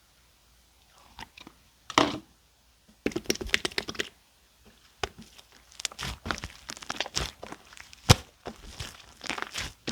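Orange clear slime and shaving foam being squished and kneaded by hand, making wet crackling clicks and pops. The clicks start sparse, turn dense from about three seconds in, and pause briefly around four to five seconds.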